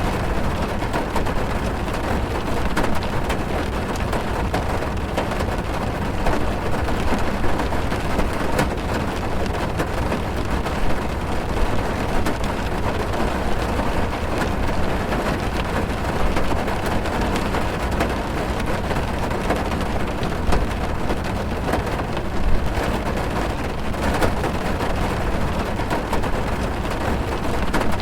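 Heavy rain drumming on a car's roof and windows, heard from inside the car: a dense steady patter of drops over a deep low rumble.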